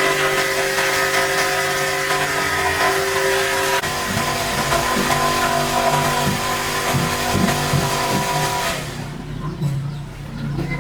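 A cleaning machine's motor running steadily with a loud hiss over it. About nine seconds in the hiss drops away and a lower hum carries on.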